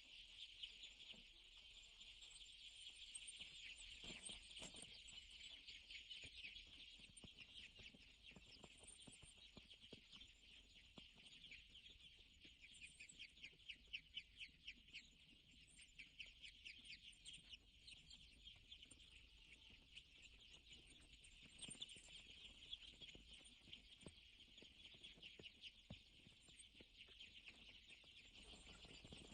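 Faint, continuous peeping of many young chickens, with high, rapid calls overlapping throughout.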